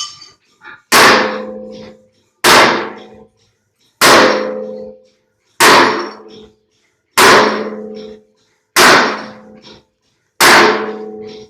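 Metal struck hard with a hammer, seven evenly spaced blows about a second and a half apart, each ringing with a low metallic tone that dies away before the next.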